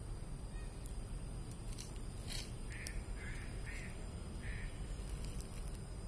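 A wild bird giving four short, raspy calls about half a second apart, just before a sharp click. The low rumble of the handheld phone runs underneath.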